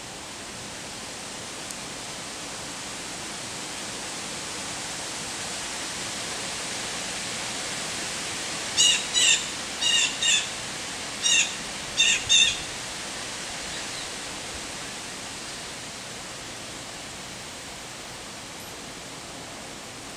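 A bird gives a run of about seven short, loud calls, mostly in pairs, a little before the middle. Under them is a steady hiss that swells and then fades.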